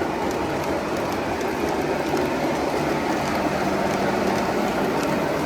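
O-gauge model trains running on the layout's track: a steady rumble of wheels rolling over the rails, with faint scattered clicks.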